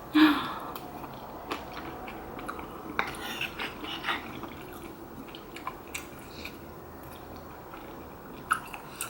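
Close-miked chewing of a mouthful of rice cake and dumpling soup, with small wet mouth clicks now and then.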